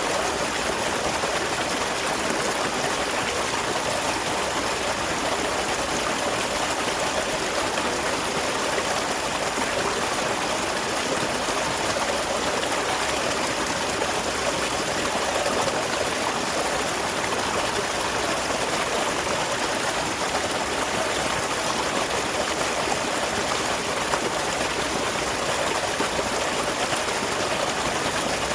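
Water of a small waterfall pouring and splashing in a steady, even rush.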